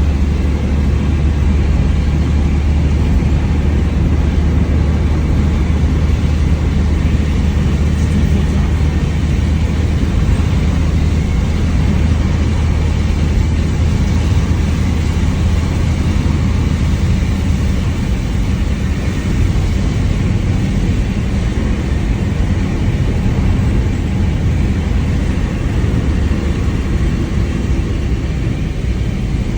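Mitsubishi Lancer on the move: a steady low rumble of engine and road, with an even hiss of rain and wind over it.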